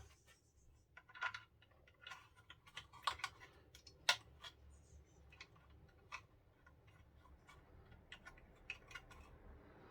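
Faint, irregular clicks and taps of small RC kit parts being handled and fitted by hand, with the loudest knocks a little after one, three and four seconds in.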